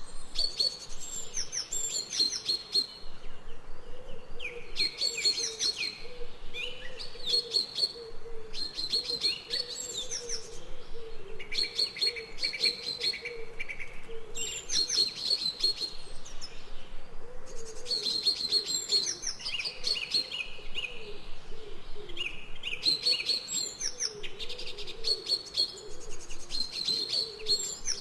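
Forest birdsong: several birds chirping and singing in short, repeated high phrases, with a fainter, lower wavering call underneath.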